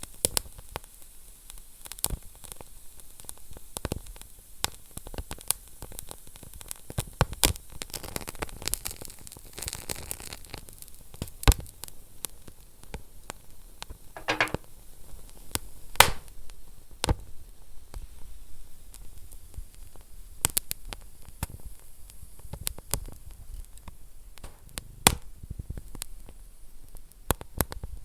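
Wood fire burning in a fireplace: a soft steady hiss with irregular crackles and snaps, some sharp loud pops. There is a brief rush of hissing partway through and a short whistle about halfway.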